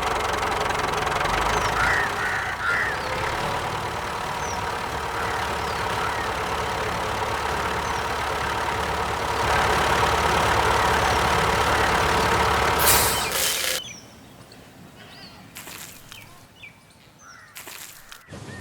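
A small motor running steadily, which cuts off about 14 seconds in, leaving a quieter background with a few knocks. Birds call now and then.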